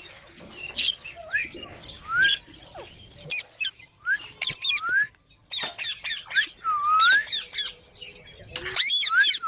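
Green parrot calling: a string of short calls that glide upward, one every second or so, mixed with clusters of harsh, sharp screeches that come thickest in the middle and again near the end.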